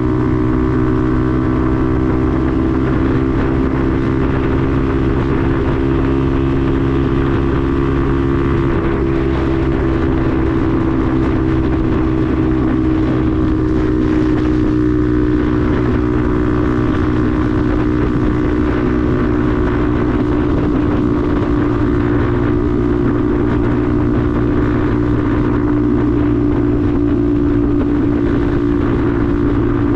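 Benelli TNT 125's single-cylinder four-stroke engine running at a steady pitch, holding a constant speed, with wind noise on the microphone.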